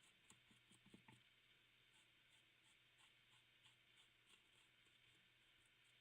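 Near silence: faint room tone with light, regular ticking and a few soft knocks about a second in.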